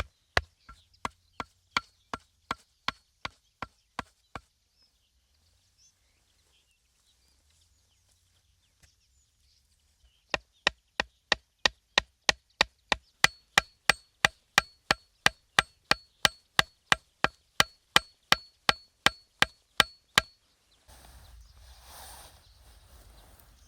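Rapid, evenly spaced chopping strikes on wood, about three a second, in two runs with a pause of several seconds between them. Near the end the chopping stops and a dull, irregular rustling noise follows.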